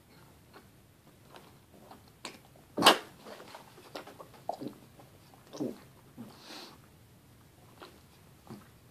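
A person biting and chewing a piece of lemon, with scattered small wet mouth sounds and one louder sharp sound about three seconds in.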